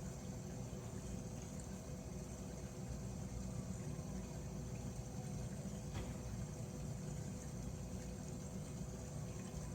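Steady low background rumble with a faint hum, and a single faint click about six seconds in.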